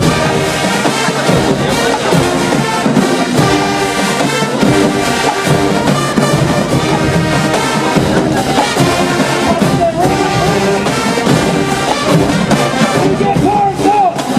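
College marching band playing loudly, its brass section (trumpets and trombones) carrying sustained chords over percussion.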